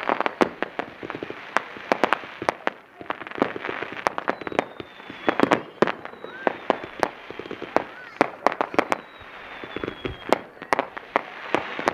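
Aerial fireworks going off in a rapid series of bangs and crackles, with a long, faint falling whistle through the middle.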